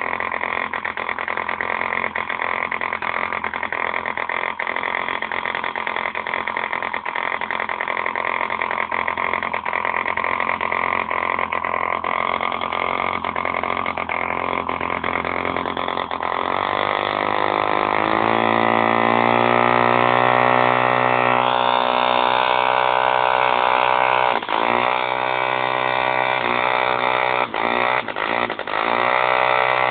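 B51 model diesel engine running; about halfway through it speeds up into a higher, clearer note. Near the end its speed dips sharply and recovers several times.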